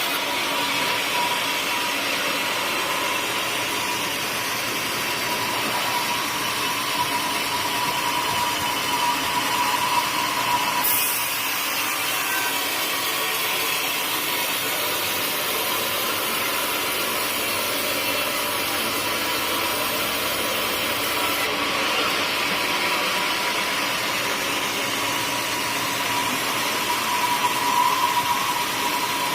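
Sawmill saw running steadily while cutting a teak log, a continuous machine noise with a faint steady whine.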